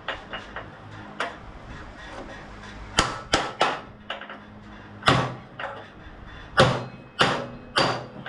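A hammer striking metal: about ten sharp blows in irregular groups, driving a stuck keyed part off its shaft.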